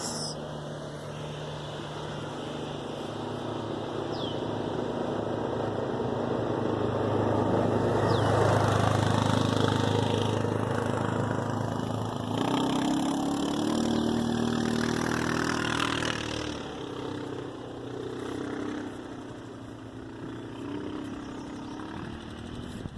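A motor engine running, getting louder to a peak about nine seconds in, then shifting pitch and fading away.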